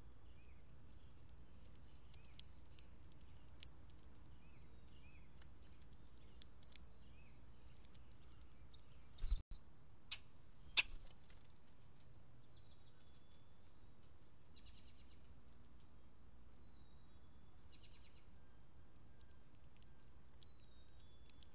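Small birds chirping and calling, with many short high notes and a run of repeated curved notes in the first few seconds. Two sharp clicks come near the middle.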